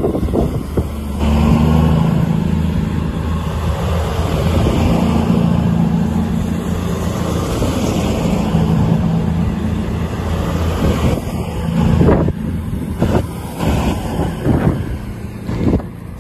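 A train running past: a steady low drone from its engines or motors over the rushing noise of wheels on the rails, then a few sharp knocks in the last few seconds.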